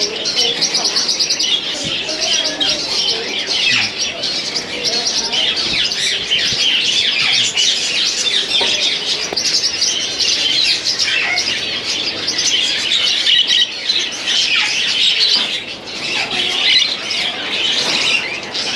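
Many small caged birds chirping and trilling at once, a dense, unbroken chorus of high-pitched calls.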